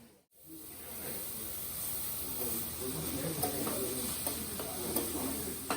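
Meat sizzling on a hot iron griddle, a steady hiss, with a brief drop-out just after the start.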